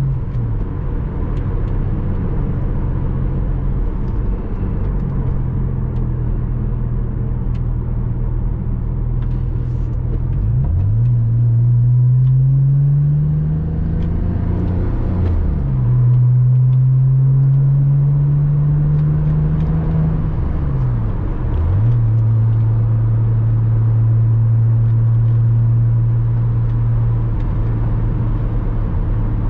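Porsche Boxster 986's flat-six engine pulling the car along, its note climbing steadily under acceleration twice and dropping sharply at each gear change, then holding steady at a cruise, over road noise.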